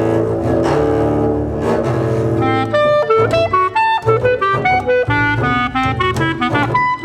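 Contemporary chamber music for clarinets and double bass: a dense, low, held sound for the first two and a half seconds, then quick short notes leaping between low and high registers.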